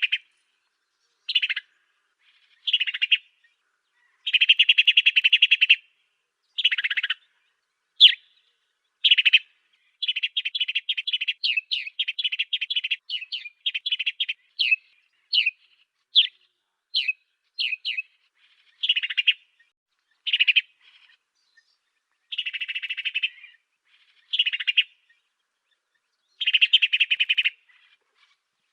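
African sparrow song: short buzzy chattering phrases alternating with sharp single chirps, including a quick run of chirps about a third of the way in, each phrase separated by a clean silence.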